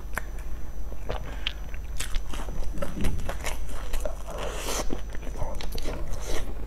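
Close-miked biting and chewing of a fried bun with a crisp crumb crust and a soft red bean paste filling: many short, irregular crunchy crackles and wet chewing.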